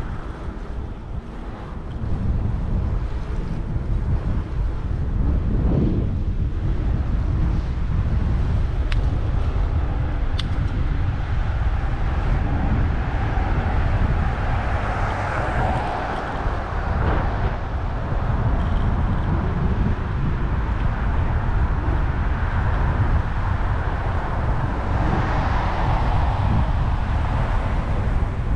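Wind buffeting the microphone of a moving bicycle rider, over the steady noise of city street traffic.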